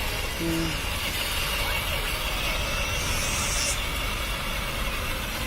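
Steady low rumble of a motor vehicle running, most likely the motorbike. There is a brief pitched hum about half a second in and a short high squeak around three seconds in.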